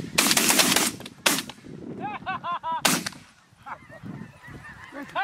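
Shotgun shots at snow geese: a loud blast right at the start with a lingering rumble, another about a second and a quarter in, and a third near the three-second mark. Between the shots come rapid high snow goose honks, several in quick succession, with more honking near the end.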